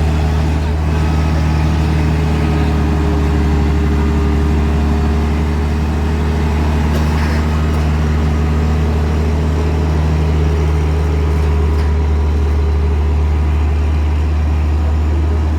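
Truck diesel engine running steadily at low revs, a deep even hum with no change in speed.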